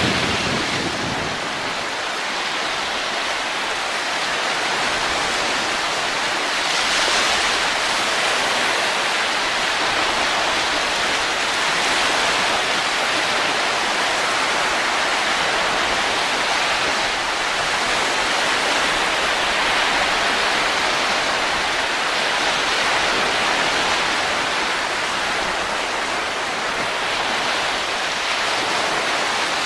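Steady rushing wind, an even hiss that swells gently now and then.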